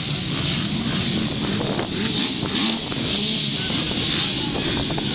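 A field of MX2 motocross bikes at a race start, many engines revving and running together in a steady, dense din of overlapping tones.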